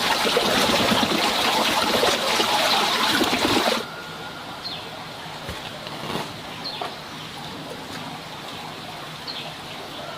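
A loud, dense crackling hiss for nearly four seconds that cuts off suddenly, followed by a quieter background with a few short, high bird chirps.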